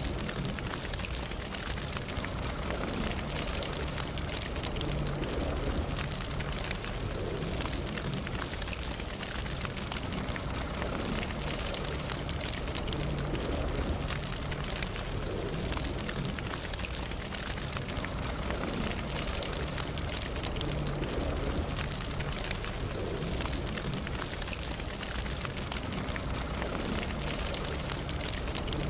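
Campfire burning: a steady hiss and rumble of flames with many small crackles and pops throughout.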